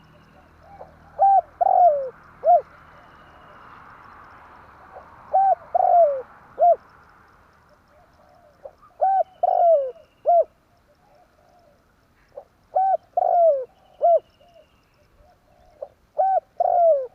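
Spotted dove cooing: five short phrases, each of three or four falling coos, repeated about every four seconds. Faint high chirps of another bird can be heard in the background.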